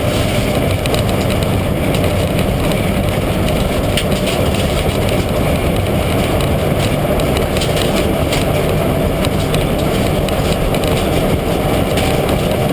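Mitsubishi Lancer Evolution IX rally car, with its turbocharged four-cylinder engine, running with a steady, loud low rumble and no big revs.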